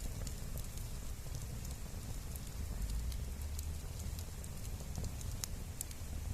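Wood campfire crackling: scattered sharp pops and snaps over a low steady rumble, with one louder pop near the end.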